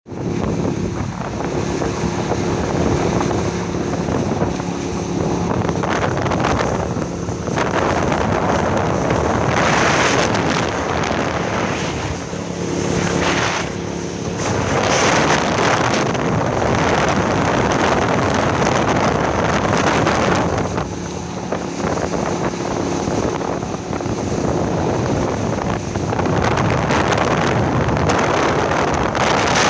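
Motorboat engine running under loud rushing wind on the microphone and water noise; the engine's steady hum comes and goes beneath the wind.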